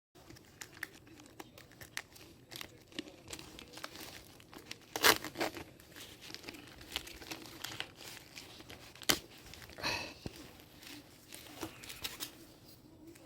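Irregular crinkling and crackling, with many small sharp clicks and a few louder crackles, the loudest about five seconds in.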